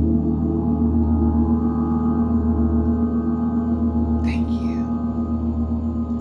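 A large gong ringing on after a single strike, its low hum and many overtones sustained and slowly wavering in loudness.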